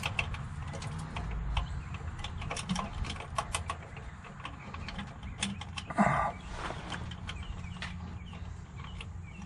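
Irregular small metallic clicks and scrapes as a starter mounting bolt is worked loose and handled under a Ford F-150, with one louder clank about six seconds in.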